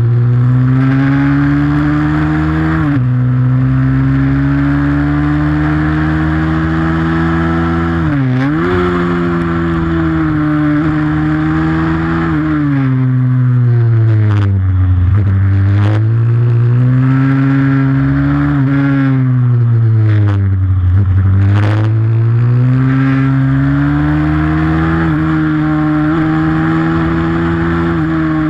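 Pit bike's small single-cylinder engine racing at high revs, its pitch dipping and climbing back several times as the throttle closes and opens through corners.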